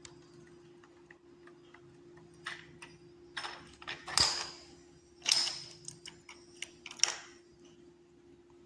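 Dominoes clicking and clattering as birds knock them over. Scattered light clicks build to three louder clatters about four, five and seven seconds in.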